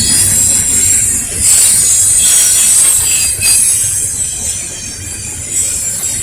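Norfolk Southern intermodal freight train rolling past on steel wheels: a steady low rumble with a high-pitched ring from wheels on rail.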